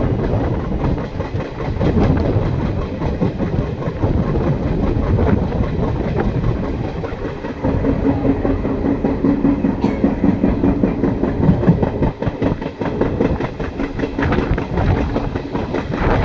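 Train running on the rails, its wheels clattering over the rail joints. A steady low hum is added for several seconds around the middle.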